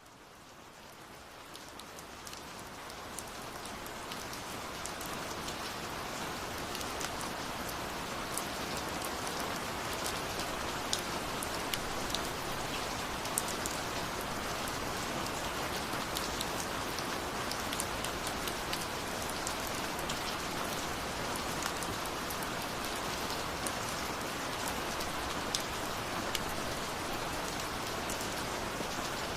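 Steady rain falling on a surface, a dense hiss with many separate drops ticking sharply throughout. It fades in over the first few seconds, then holds even.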